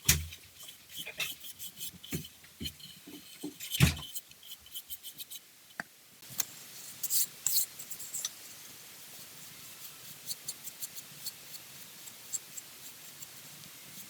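Hand work on small wooden pieces: irregular taps and knocks, one sharp knock about four seconds in, then light scratchy scraping over a faint steady hiss.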